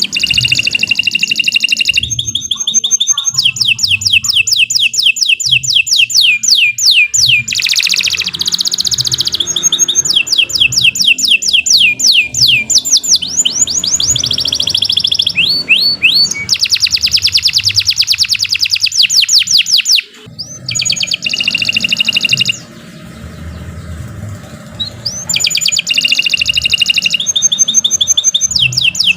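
Domestic canary singing a long continuous song of rapid trills: fast runs of repeated notes, each run changing to a new note shape, with a brief break about twenty seconds in and a softer passage just after.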